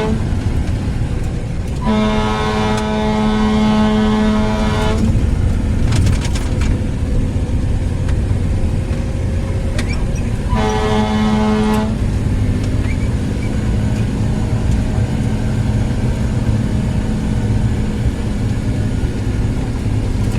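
A vehicle horn sounds at one steady pitch: it ends just after the start, blows a long blast of about three seconds starting about two seconds in, and gives a shorter blast of about a second near eleven seconds. Under it runs the steady road and engine noise of a moving car.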